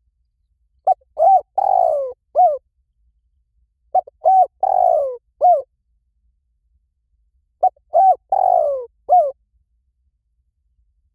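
Spotted dove cooing: three repeated phrases about three and a half seconds apart, each a few short coos around one longer coo that falls in pitch.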